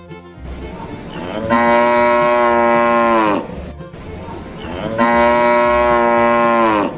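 Cow mooing: two long moos, each about three seconds, the pitch falling away at the end of each.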